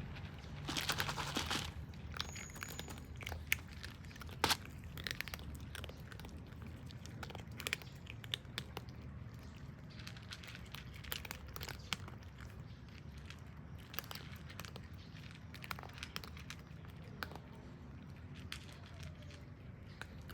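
Cats chewing dry food: irregular small crunches and clicks, with a louder rustling burst about a second in.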